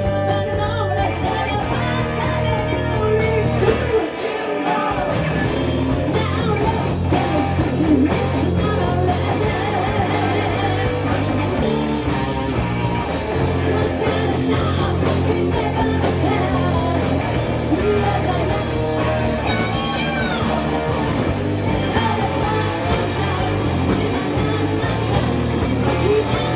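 Hard rock song with singing over electric guitar, bass and drums, played by a band; the bass drops out briefly about four seconds in.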